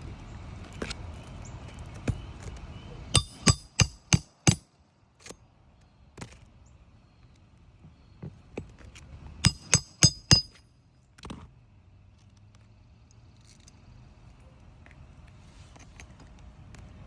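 Hammer blows on a steel roof snake driving it under a shingle to cut or pull the roofing nail: two quick runs of about five ringing metal strikes each, a few seconds apart, with a few lighter knocks between them.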